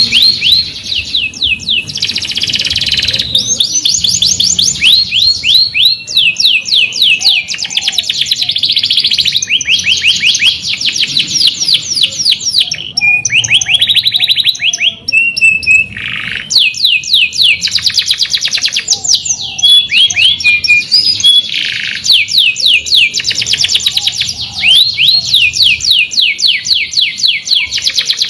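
Domestic canary singing a long song of fast trilled rolls, each phrase a rapid run of repeated notes, one running into the next with only a few brief pauses.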